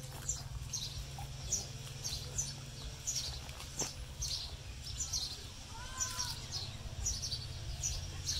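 A small bird chirping over and over, short high falling chirps about two or three a second, with a single different, lower arching call about six seconds in, over a steady low hum.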